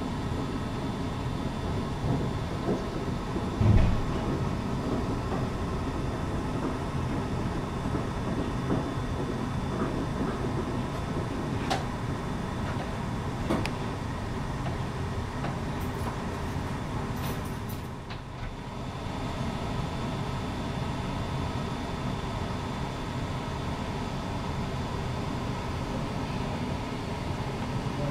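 Steady low rumble of distant city traffic heard from a high rooftop, with a faint hum running under it. A short low thump comes about four seconds in, and the sound dips briefly around eighteen seconds.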